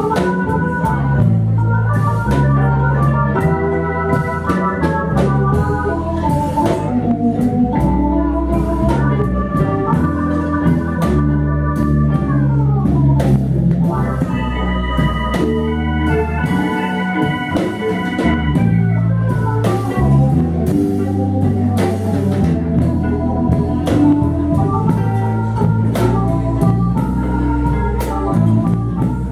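Live blues band playing an instrumental passage: a keyboard lead of held chords and runs over bass and drums, with a downward glide about halfway through.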